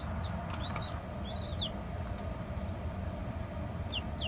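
Baby chicks peeping: a run of short, high, arched or falling peeps in the first second and a half, then two more near the end, over a steady low hum.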